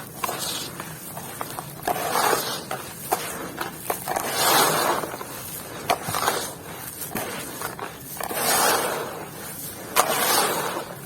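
Dry, dusty material being crumbled and crunched in about five surges of a second or so each, with sharp cracks and snaps between them.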